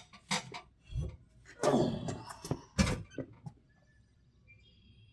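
A few knocks and thumps with a stretch of rubbing and scraping, about three seconds in all, as a heavy aluminium truck wheel is handled and turned over; the sharpest knock comes a little under three seconds in.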